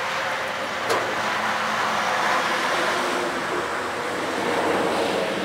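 A 4x4 mud truck's engine running steadily on one of its first starts, with a single sharp click about a second in.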